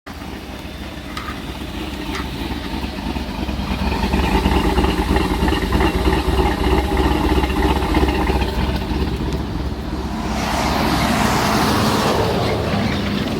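A vehicle engine running steadily, growing louder over the first few seconds and then holding. About ten seconds in, a broad rushing noise swells and fades over it.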